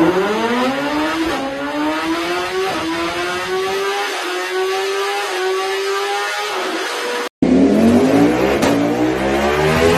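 1000 cc four-cylinder motorcycle engine accelerating hard, its pitch climbing steadily with a small dip at each upshift. About seven seconds in, the sound cuts abruptly to a second run of a motorcycle accelerating up through the gears.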